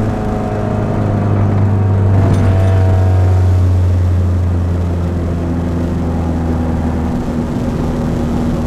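Dodge Neon SRT-4's turbocharged 2.4-litre four-cylinder engine running steadily as the car drives along, with a deep steady drone. It swells slightly and rises a little in pitch about two to three seconds in.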